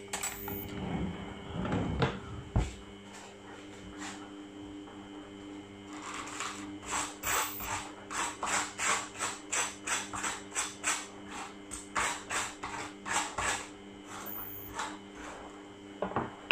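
Chewing of egg on toast, a regular run of short crunching strokes at about two a second from about six seconds in, over a steady low hum. A few knocks come in the first few seconds.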